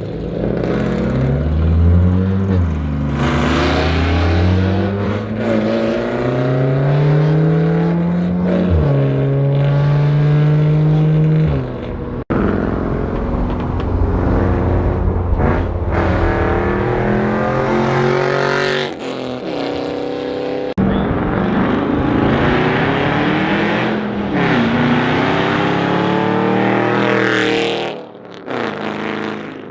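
2007 Ford Mustang GT's 4.6-litre V8 running through a catless H-pipe with no mufflers, very loud, revving up and settling back again and again. The sound breaks off abruptly a few times.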